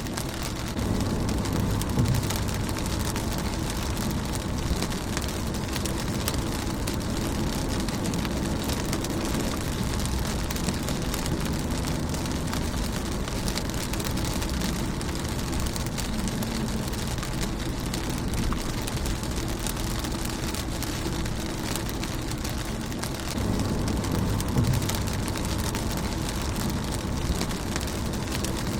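Steady rain falling on a car's windshield, an even patter dotted with single drop ticks. A low rumble swells twice, once shortly after the start and again near the end.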